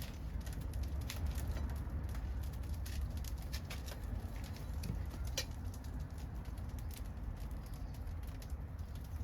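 Wood fire crackling, with irregular small pops throughout and a sharper pop about five seconds in, over a steady low rumble.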